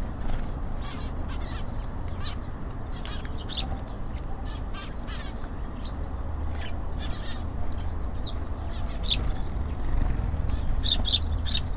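Tits and sparrows giving many short, high chirps, scattered throughout and coming faster near the end, over a steady low rumble.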